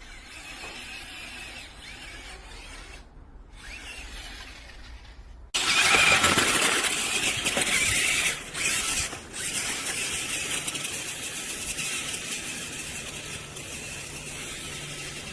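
Remote-control Grave Digger monster truck's electric motor and gears running with a high whine, becoming suddenly much louder about five seconds in.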